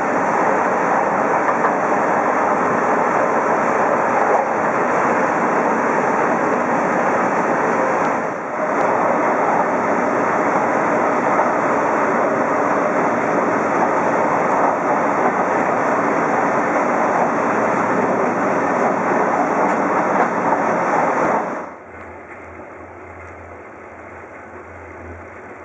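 Sleeper train running at speed: a loud, steady rushing noise from the wheels on the rails and the air. About 22 seconds in it cuts to a much quieter, low rumble with a faint hum.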